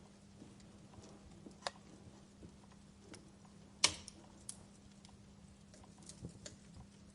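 Wood fire crackling: scattered snaps and pops, the loudest a sharp pop about four seconds in, over a faint steady hiss.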